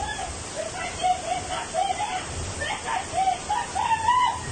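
Steady rush of heavy rain and floodwater. Over it a high-pitched voice calls out in short, rising and falling phrases, louder than the water.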